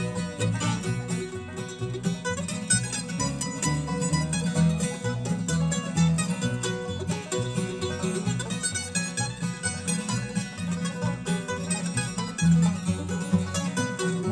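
Bluegrass band playing an instrumental break with no singing: picked acoustic strings in quick, busy runs over a steady bass line.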